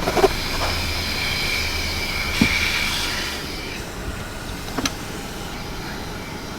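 A car running, with a steady low hum and whine that fade after about three and a half seconds, and two sharp clicks.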